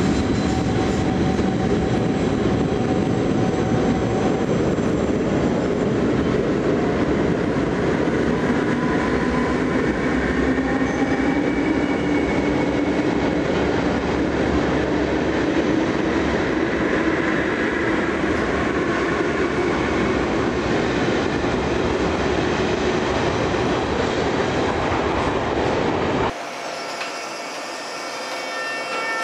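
NS Koploper intercity train moving along the platform in the underground station: a steady, loud rumble of wheels and running gear, with a tone that rises slowly in pitch. About 26 seconds in, the sound cuts to a quieter platform hum with a few steady tones.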